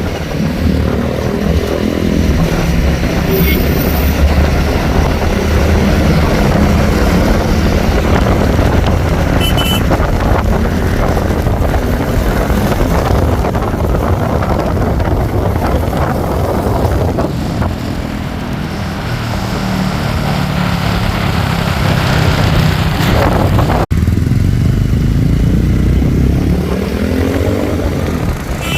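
Royal Enfield Hunter 350's single-cylinder engine and exhaust running on the move, steady for long stretches and rising in pitch as the bike accelerates, most clearly near the start and again near the end.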